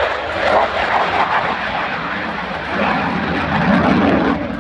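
Military display aircraft's engines running loud and steady as it flies over, with a deeper rumble swelling about three seconds in.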